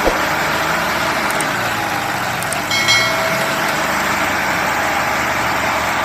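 John Deere 5310 tractors' diesel engines running steadily under load, with a brief high tone about three seconds in.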